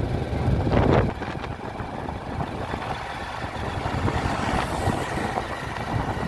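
Steady running noise of a road vehicle on the move, with wind buffeting the microphone for about the first second.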